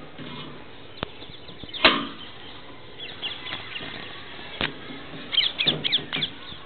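Parrots calling: a quick run of short, shrill squawks near the end, with a few fainter calls earlier. A single sharp knock about two seconds in, and a couple of fainter clicks.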